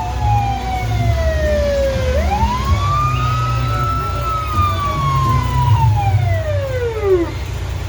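Fire engine siren wailing: its pitch falls, sweeps back up about two seconds in, then slowly winds down and dies out near the end. The truck's engine rumbles steadily beneath it.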